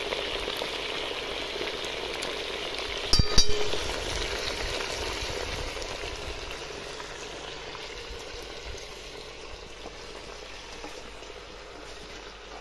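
Mutton frying and sizzling in a black wok (kadai), a steady hiss that grows quieter toward the end. A little over three seconds in, a sharp metallic clank rings out, the steel spatula striking the pan.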